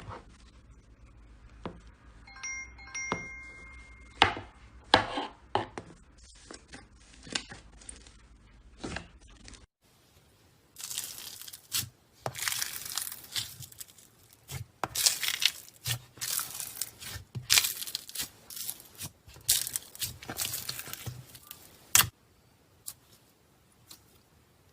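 Slime being squeezed and stretched by hand, giving irregular crackling, popping and tearing sounds. About ten seconds in the sound changes to a denser, louder run of crackling bursts that stops abruptly near the end, and a few brief chime-like tones ring out around three seconds in.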